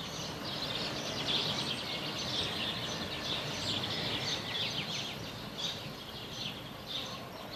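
Birds chirping: many short, quick chirps over a steady background hiss, thinning out in the second half.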